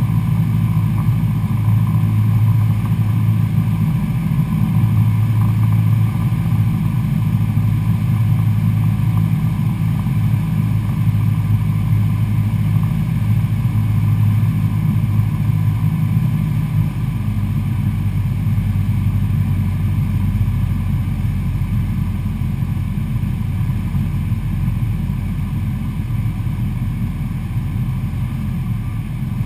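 Cessna 172SP Skyhawk's four-cylinder Lycoming IO-360 engine and propeller running steadily in flight. About 17 seconds in the engine note drops and gets a little quieter, as power is pulled back.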